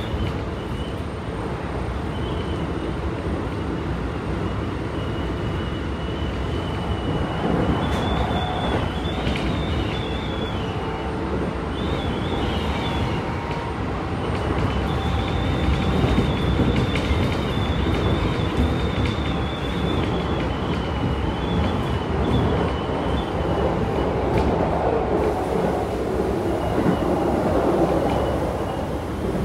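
Running noise inside a Keikyu 1000 series stainless-steel commuter car at speed: continuous rumble of wheels on rail, with a high wheel squeal that comes and goes. The noise grows somewhat louder about halfway through.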